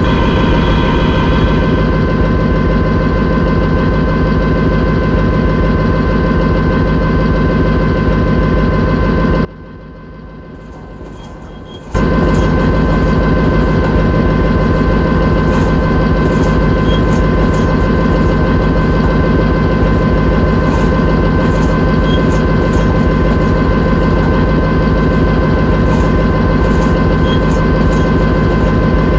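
Locomotive engine running steadily at a fixed pitch with a constant hum. About nine seconds in, the sound drops off suddenly for about two and a half seconds, then comes back at full level.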